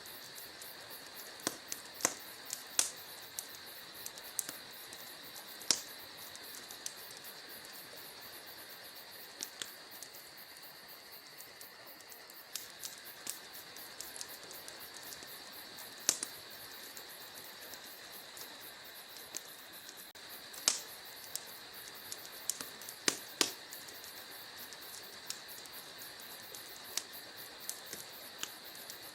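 Wood fire crackling, with irregular sharp pops, a handful of them louder, over a steady high chirring of crickets.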